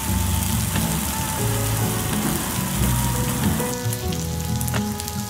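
Pork belly and kimchi sizzling in rendered fat on a hot plate: a steady frying hiss with small pops, the pops more frequent in the last second or two.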